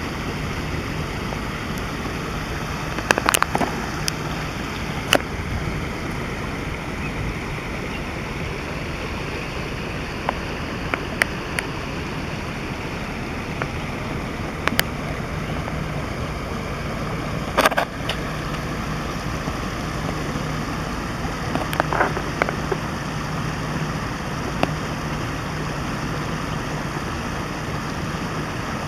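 Small woodland stream running with a steady rushing babble, broken by a few sharp clicks scattered through it.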